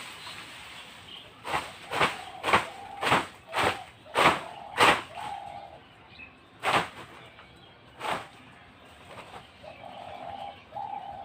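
Pigeons cooing in low hooting phrases, mixed with a run of sharp claps about two a second for a few seconds, then two more single claps.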